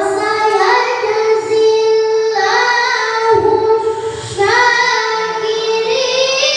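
A boy's voice reciting the Quran in melodic style, holding long ornamented notes. A little past halfway the phrase breaks off briefly, and a new phrase starts that climbs higher in pitch.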